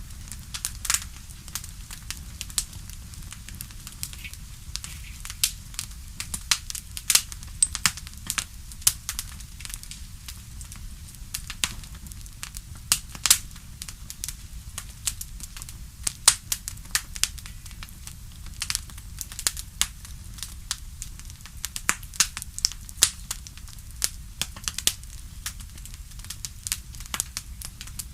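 Crackling wood fire (campfire sound track): irregular sharp pops and snaps throughout, over a low steady rumble.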